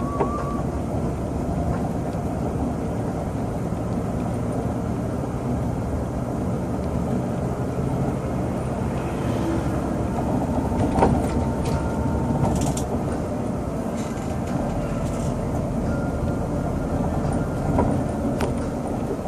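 Scania coach on the move, heard from inside the cabin: a steady engine and road rumble with occasional knocks and rattles, the loudest about eleven seconds in.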